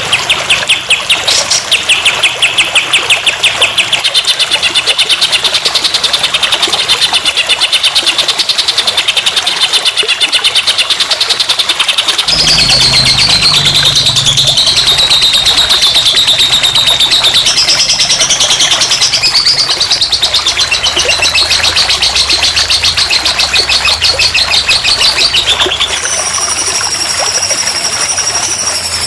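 Recorded songbird song played as a masteran (tutor) track for training a cage bird: a fast, continuous trilling chatter of high repeated notes. The song changes abruptly about 12 seconds in and again near the end, as one recording gives way to another.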